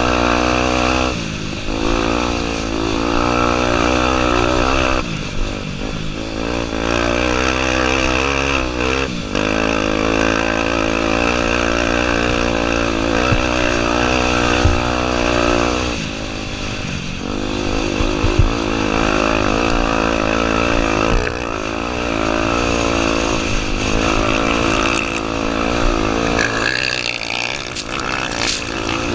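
Honda Tornado 250 single-cylinder four-stroke dirt-bike engine being ridden under load, its pitch rising and falling with the throttle. It drops off briefly every few seconds as the rider shifts or rolls off, and there are a couple of sharp knocks mid-way.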